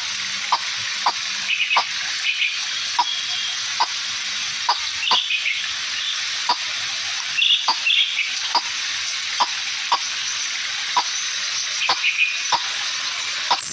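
Short bird chirps over a steady high hiss, with a sharp tick repeating about twice a second.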